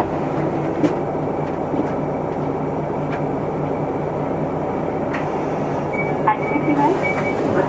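Isuzu Erga Mio city bus heard from inside the cabin: steady diesel engine and road noise while it runs, with a few faint short high tones near the end.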